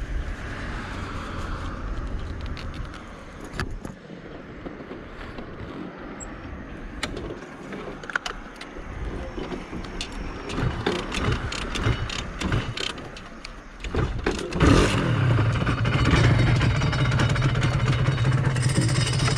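Honda NSR250R's two-stroke V-twin engine: scattered clicks and knocks over a low rumble, then about fifteen seconds in the engine comes in suddenly and runs loud and steady.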